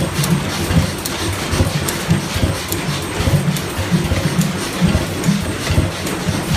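Antique stationary engines running, with uneven low beats and sharp clicks over them.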